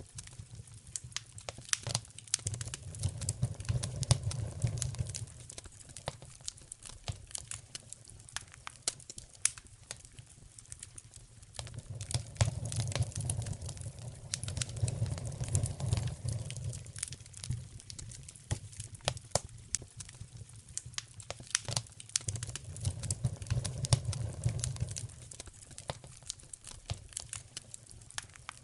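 Wood fire in a fireplace crackling, with frequent irregular pops and snaps. Under it a low rumble swells and fades three times.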